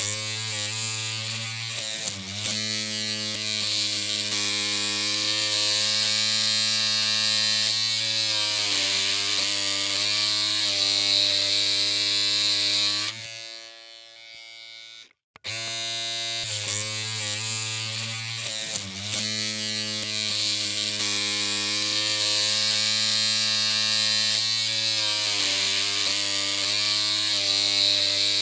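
Electric hair clippers running with a steady buzzing hum and a hiss on top. About halfway through the sound dies down and cuts out for a moment, then starts up again the same way.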